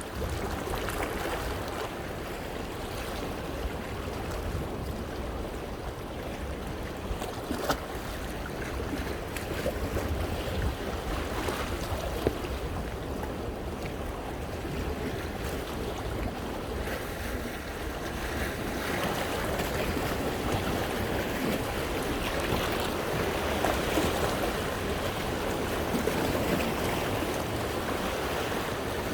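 Sea waves washing against and over coastal rocks, a continuous splashing wash that surges louder and softer as the swells come in, with a low wind rumble on the microphone and a couple of brief sharp clicks.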